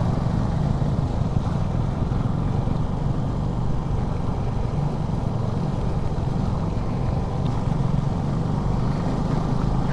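Motorcycle engine running steadily while riding at an even pace, with wind rushing over the helmet microphone.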